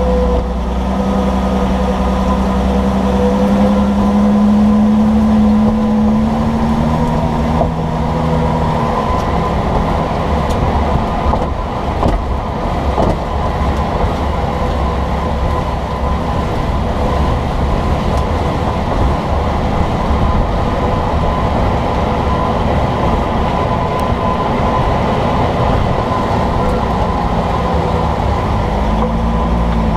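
Loud, steady road and running-gear rumble from beneath a moving vehicle near its leaf-spring suspension and sway bar. The engine's hum shifts in pitch during the first several seconds, and a few sharp knocks come about twelve to thirteen seconds in.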